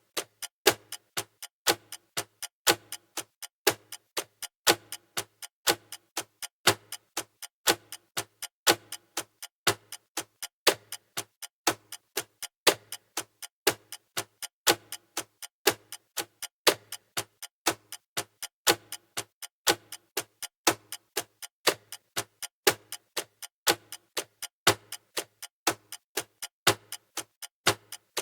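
Clock-style ticking of a countdown timer: even, sharp ticks, about two a second, some louder than others.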